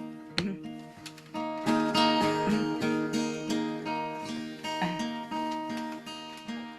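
Acoustic guitar strumming chords in a steady rhythm, an instrumental lead-in to a worship song.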